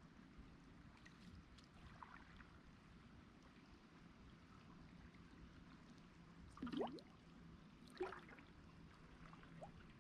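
Near silence: a faint, steady wash of river water. Two brief louder sounds come about seven and eight seconds in.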